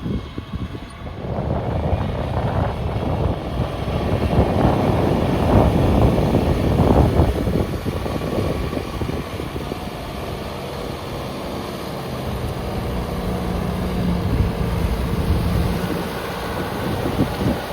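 Kubota tractor's diesel engine running, its rumble growing louder about a second in, with a steadier hum later on.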